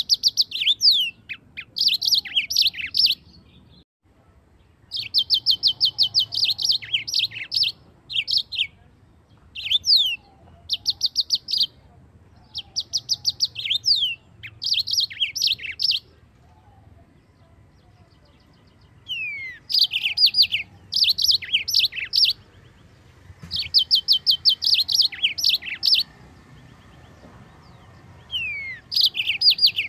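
Yellow-fronted canary (Mozambique canary) singing in a series of phrases of fast, rapidly repeated high notes mixed with downslurred whistles, each phrase lasting one to three seconds with short pauses between.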